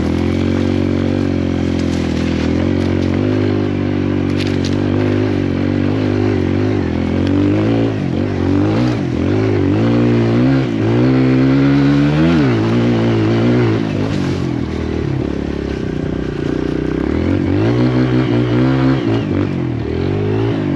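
Kawasaki KLX140L dirt bike's single-cylinder four-stroke engine running while being ridden, holding a steady note at first, then revving up and down repeatedly from about eight seconds in and again near the end.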